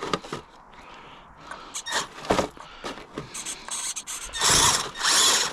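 Small clicks and knocks, then near the end two short bursts of the RC tracked vehicle's electric motors whirring as they drive its metal tracks.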